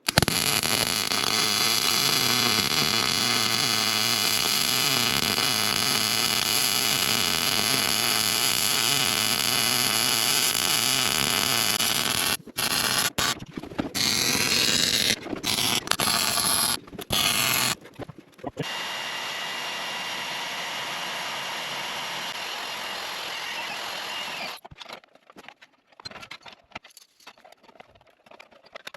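A power tool working metal, running steady and loud for about twelve seconds, then in short on-off bursts, then a quieter steady run that stops about three quarters of the way through, leaving only scattered small sounds.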